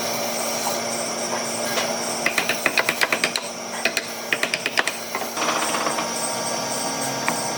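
A power tool running steadily, with two runs of rapid sharp knocks about two and four seconds in.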